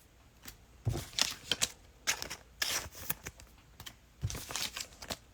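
2021 Mosaic football trading cards being flipped and slid against one another in quick, irregular flicks and rustles, with a soft thump about a second in.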